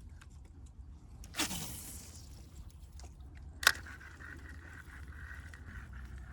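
A fishing rod cast from a kayak: a short swish of the cast about a second and a half in, then a sharp click about two seconds later, followed by the steady whirr of the reel being wound in.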